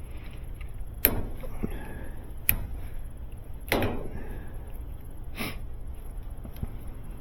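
Electrical tape being cut and pulled off appliance wiring: four sharp snaps, each fading quickly, the third the loudest with a longer tail.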